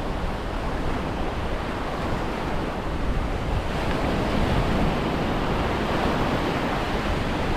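Surf breaking and washing up the beach in a steady rush, with wind on the microphone.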